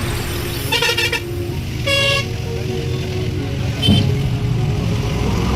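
Truck horn honking three times, a half-second toot, a shorter one and a brief tap, over the steady low rumble of a running engine.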